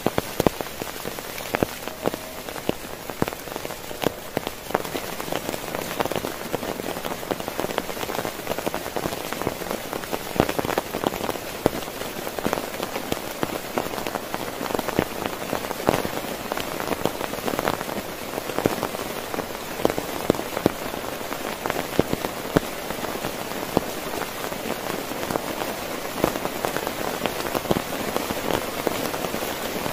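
Heavy rain falling steadily on a tent, with many sharp individual drop hits over the constant hiss.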